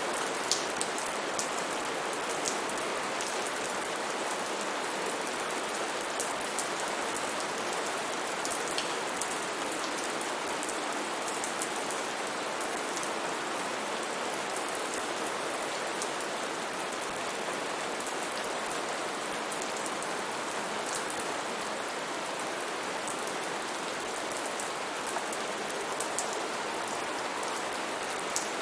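Steady rain falling: a dense, even hiss with scattered sharp ticks of individual drops striking close by.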